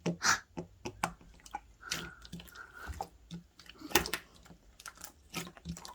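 Close-up wet eating sounds: irregular sticky clicks and smacks of chewing and mouth movement, with a brief high tone about two seconds in.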